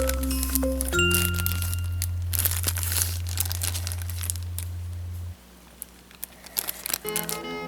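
Packaging crinkling and rustling in irregular bursts over background music. The music's held bass note cuts off about five seconds in, and its bell-like melody returns near the end.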